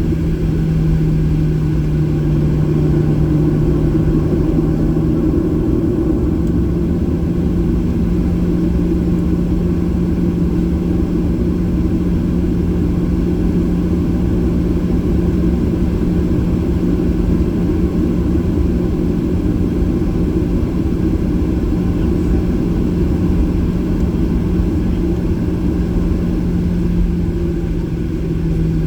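Boeing 737-800's CFM engines running steadily at low power, heard inside the passenger cabin as an even drone over a low rumble.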